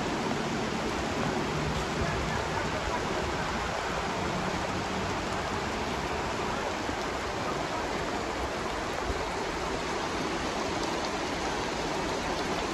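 Heavy rain pouring steadily onto the road, an even, unbroken hiss.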